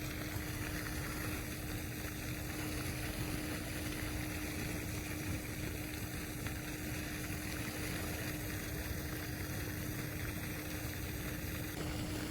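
Steady outdoor background noise, an even hiss with a faint steady hum under it, and no distinct events.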